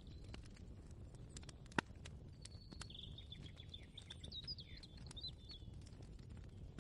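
Faint kitchen ambience: a low, steady background rumble with scattered light clicks and taps, one sharper click about two seconds in. Through the middle a bird sings a short run of high, warbling chirps.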